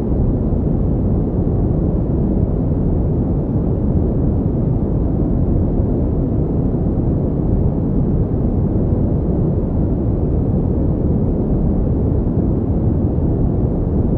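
Steady pink noise: a deep, even rushing sound with no changes or events.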